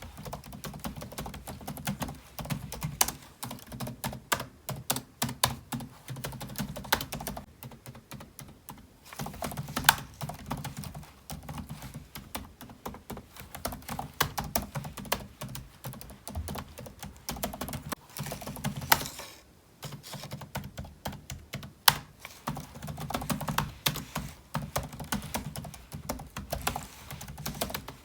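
Typing on a computer keyboard: a fast, irregular run of key clicks with short pauses, and a few single strokes that stand out louder, about ten seconds in and again about twenty-two seconds in.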